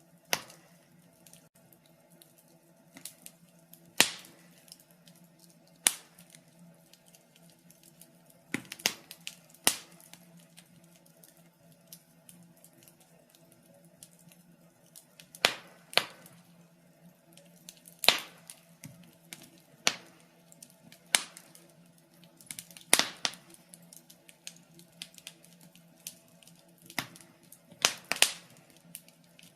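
Wood fire in a fireplace crackling: sharp, irregular pops and snaps every second or two, some in quick clusters, over a faint steady hum.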